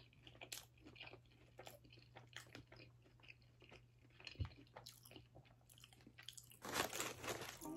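A person chewing a mouthful of grilled cheese burrito close to the microphone: faint, irregular wet clicks and soft crunches, with a louder burst of crunchy noise near the end.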